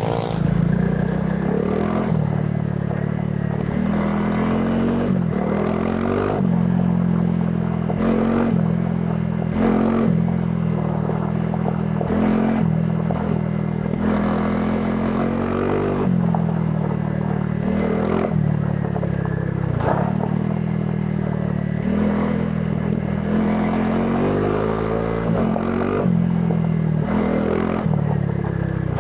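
Honda CRF300 Rally's single-cylinder engine on its stock exhaust, ridden off-road: the revs climb and drop every couple of seconds as the throttle is worked, with frequent clattering and scraping from the bike over rough ground.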